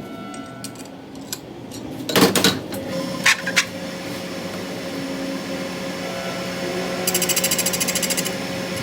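Metal knocks in a workshop, then a machine motor starts and hums steadily. About seven seconds in, a fast, even rattling buzz joins the hum.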